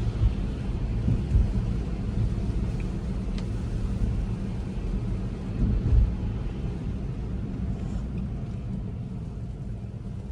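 Tesla Model 3 tyre and road noise heard inside the cabin on a wet road: a low steady rumble with a few soft bumps. It grows quieter in the second half as the car slows to a smooth stop.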